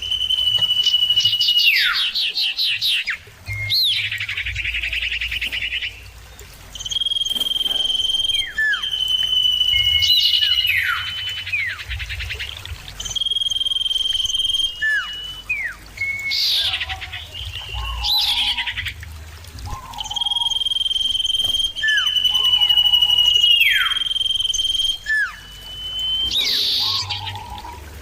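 Common ioras calling back and forth: long, steady high whistles, each ending in a steep downward slur, with short falling notes in between, repeated every few seconds.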